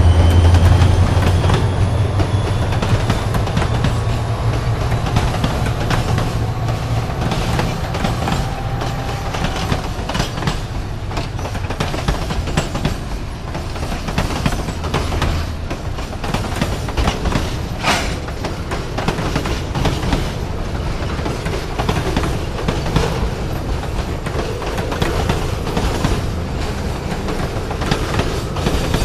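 Freight cars rolling past, their wheels clattering and clicking steadily over the rail. The low rumble of the train's EMD SD40 diesel locomotives, running in dynamic brake on a descent, fades away over the first several seconds. There is a brief sharp metallic sound about two-thirds of the way through.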